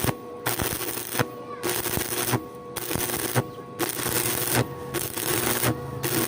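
Stick welding: the arc crackles and sputters in runs of about a second, each broken by a brief quiet gap where the arc goes out, over a steady hum.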